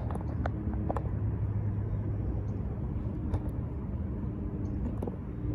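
Steady low rumble of a motor vehicle, with a few light clicks and knocks.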